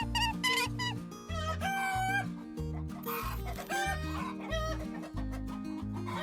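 A rooster crowing and chickens clucking over background music with a steady beat.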